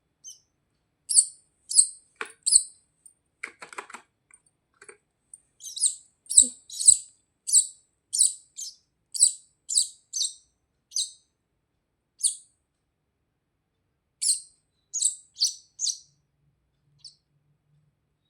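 Baby birds chirping: short, high-pitched cheeps in quick runs, thinning out near the end. A faint rustle comes about three and a half seconds in.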